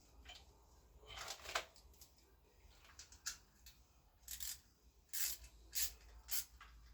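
A series of short rubbing and scraping noises, about six in all, from small parts being handled and pressed into place on a motorcycle frame.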